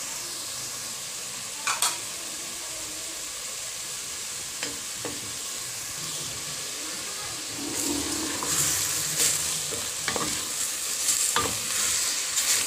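Pork belly, onion, garlic and ginger sautéing in oil in a stainless steel pot, sizzling steadily, with a few light knocks about two and five seconds in. From about eight seconds in, a wooden spatula stirs and scrapes the pieces around the pot, louder and rougher.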